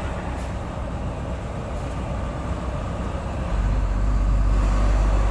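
Cargo truck driving on the road, its engine and tyre noise heard from the cab with the passenger window open. The low rumble gets louder about three and a half seconds in. No clicking from the tyres: the stone that was stuck in the tread has been removed.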